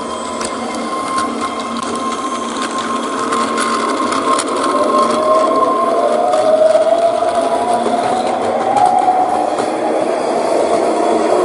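Electric train running, its motor whine rising slowly in pitch over several seconds as it picks up speed, over steady rail and running noise.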